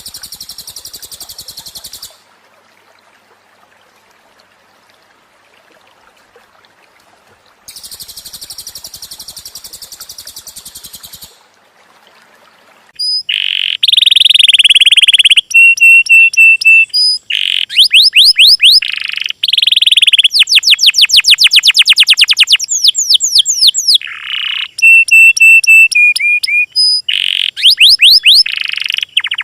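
Small songbirds singing: two high, thin buzzy trills in the first half, then from about halfway loud, fast trills of rapid sweeping notes mixed with runs of short repeated whistled notes.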